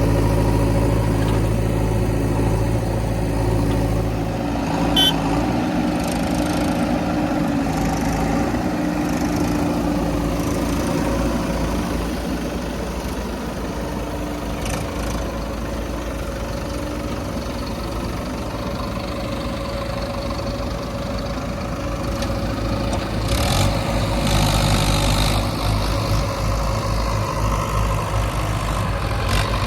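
Backhoe loader's diesel engine running steadily under work, with a single sharp clack about five seconds in and a louder stretch of running near the end.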